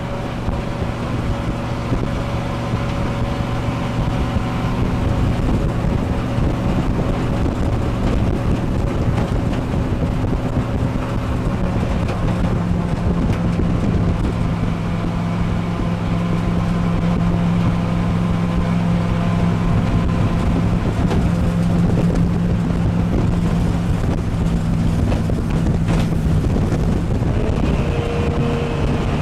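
Jet boat engine running steadily under way, its pitch stepping up and louder about twelve seconds in, over the rush of water and wind on the microphone.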